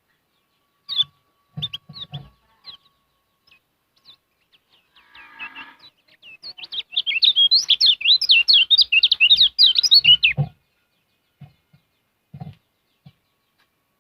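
Kecial kuning, a white-eye songbird, giving a few short chirps and then a fast, loud warbling song of rapid high notes lasting about four seconds. A few low knocks come in among the calls.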